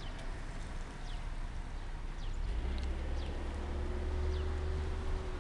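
Short falling bird chirps repeating every half second or so over a low steady hum, which grows stronger about halfway through.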